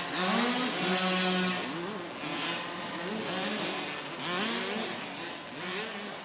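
Several motocross bike engines revving up and down as riders race around an arena dirt track. The engine notes rise and fall over and over and overlap, loudest in the first second and a half.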